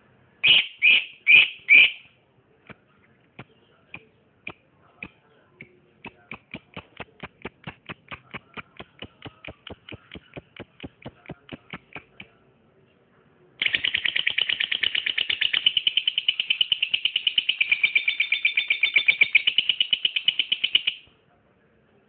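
A lovebird calling and singing: four loud, sharp calls, then a run of short chips that speeds up into an even ticking, then, after a short pause, a long, fast chattering trill of about seven seconds that stops abruptly.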